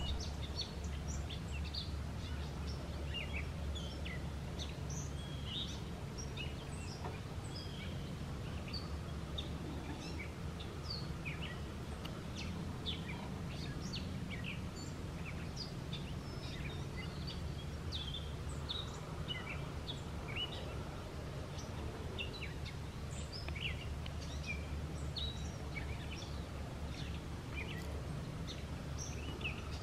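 Birds chirping: many short, high chirps scattered throughout over a steady low rumble.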